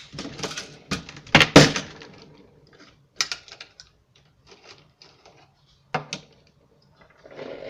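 MEC Super 600 shotshell reloading press being worked: a run of metallic clacks and knocks, loudest about a second and a half in, then a few scattered clicks.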